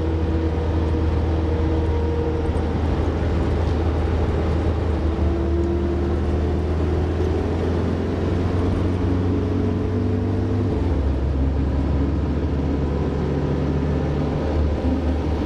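Engine running steadily: a continuous low drone under a wash of noise, with a slight change in the drone about eleven seconds in.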